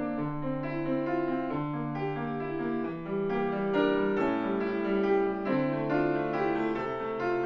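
Solo piano playing a slow, gentle original piece, with held bass notes under quietly changing chords and melody.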